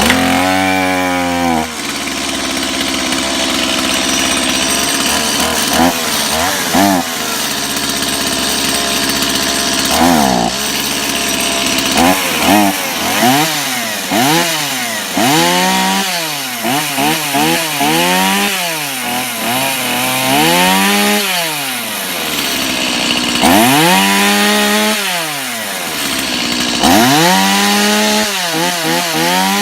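Stihl MS 170 two-stroke chainsaw running on a cold start after months of sitting. It idles steadily for about ten seconds, then is revved up and down over and over, with longer revs near the end.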